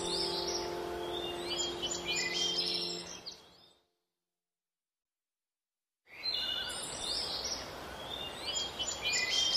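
Birds chirping in many short rising and falling calls over a steady hiss, with a few held low tones fading out in the first seconds. A little under four seconds in, the sound cuts to total silence for about two seconds, then the chirping and hiss return.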